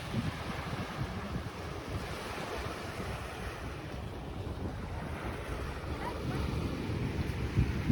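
Sea surf washing on the shore, with wind buffeting the microphone in gusts; a stronger gust near the end.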